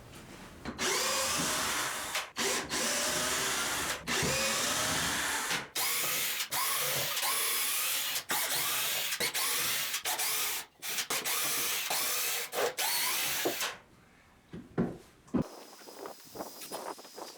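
Power drill run in a series of trigger bursts while backing screws out of wood, its motor whine rising in pitch with each pull. It stops about 14 seconds in, followed by a few light knocks and clicks.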